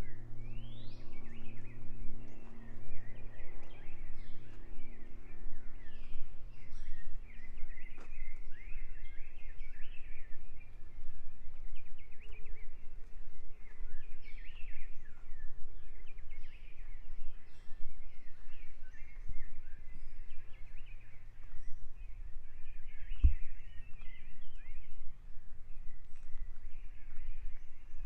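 Many birds chirping and trilling at once in a busy morning chorus, with a low steady hum underneath, strongest in the first few seconds.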